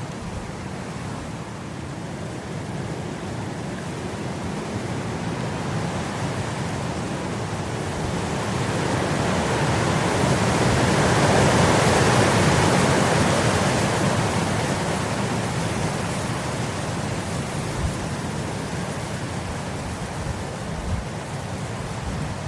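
Wind blowing across grass: a steady rush that swells into a strong gust about halfway through and then eases off, with a couple of brief low thumps near the end.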